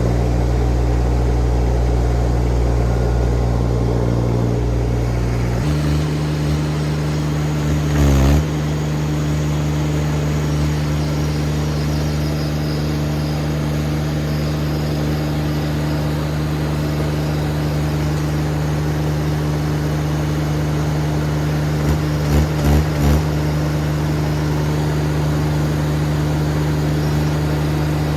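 Machine engine running steadily. It changes speed about six seconds in, with a loud clunk about eight seconds in and a quick run of three or four knocks near the end.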